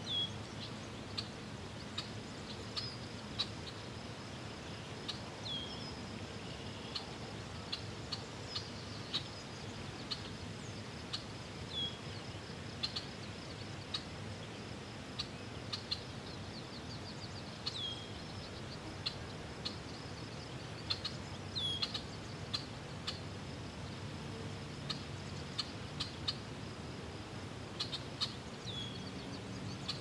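Birds calling: short high chirps that drop in pitch, one every couple of seconds, over a steady high-pitched hiss and scattered faint clicks.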